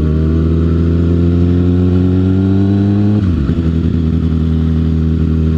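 Sport-bike inline-four engine running under way, its pitch climbing slowly as it accelerates, then dropping sharply about three seconds in and holding steady afterwards.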